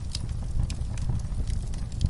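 Wood fire burning in a fireplace, crackling with irregular sharp pops several times a second over a steady low rumble.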